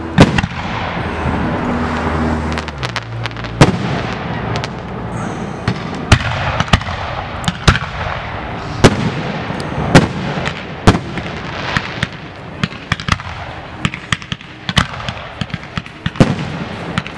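Aerial fireworks shells bursting in quick succession, sharp booms about once a second over continuous crackling.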